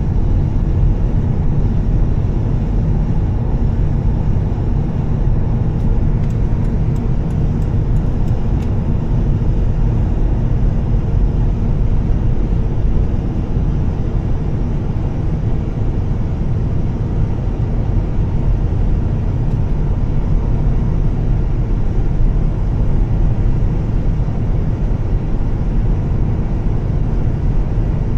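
2013 Volvo S60 T6, its turbocharged straight-six with a Heico exhaust, driving at a steady cruise: a constant low engine and exhaust drone mixed with road noise from a wet road. A short run of faint ticks about six seconds in.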